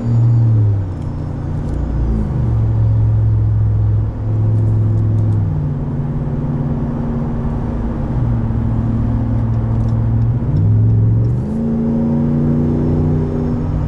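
Ram 1500 Rebel's 5.7-litre Hemi V8 running through a Carven aftermarket exhaust while driving, its note stepping up and down in pitch several times. A faint high whine rises and falls with the engine, a whining noise whose cause is not yet known.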